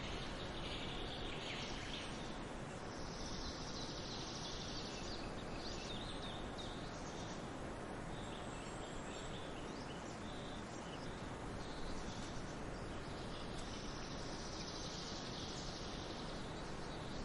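Small birds chirping, with longer high trills about three seconds in and again near the end, over a steady hiss of background noise.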